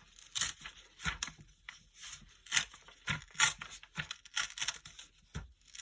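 A sheet of paper being torn by hand along a folded crease, coming away in a series of short, irregular rips to remove the excess strip and leave a square.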